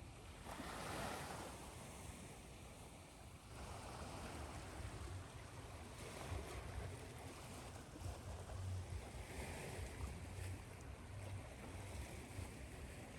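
Recorded ocean waves mixed with white noise: a steady hiss of surf that swells and ebbs every few seconds over a low rumble.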